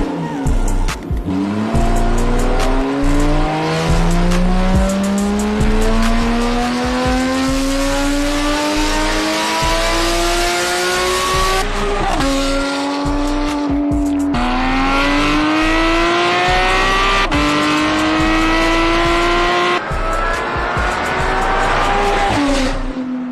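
A car engine pulling hard, its pitch climbing steadily for about ten seconds. It lifts off briefly twice near the middle, then holds a high, steady note before easing off near the end.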